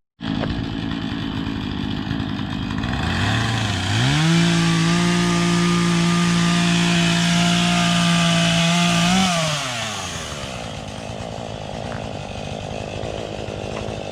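Chainsaw cutting up a fallen oak tree. The engine revs up about three seconds in, holds at full throttle for about five seconds, then drops back to a lower speed.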